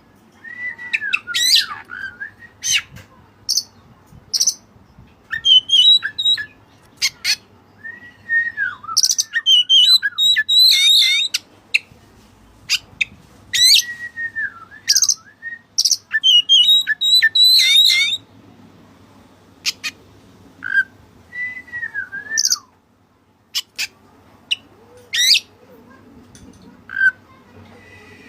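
Oriental magpie-robin (white-breasted kacer) singing in repeated phrases: sliding whistled notes mixed with quick, sharp high chatter, with short pauses between phrases. Its song is filled with phrases learned from the cililin.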